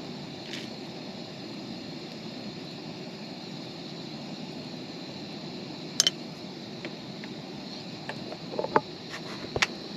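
Steady road noise of a moving van heard from inside, with a few sharp clicks and knocks about six seconds in and again near the end.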